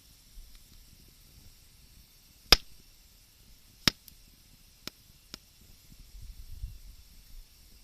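Wood fire burning with sharp pops: four separate cracks over a faint steady hiss, the first the loudest.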